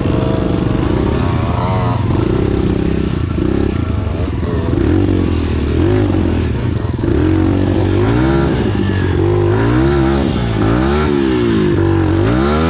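Enduro dirt bike engine running under way, revving up and down over and over, with the pitch rising and falling quickly several times in the second half.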